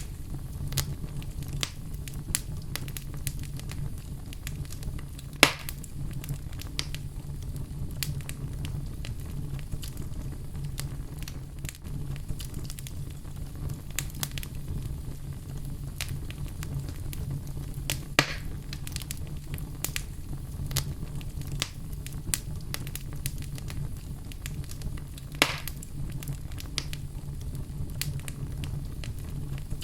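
Wood fire crackling in a fireplace: a steady low rumble under a continual patter of small crackles, with three louder pops spread through.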